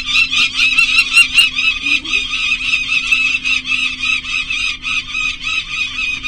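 Peregrine falcons giving rapid, repeated harsh calls in a continuous run, over a steady low hum, with a few sharp clicks in the first second or so.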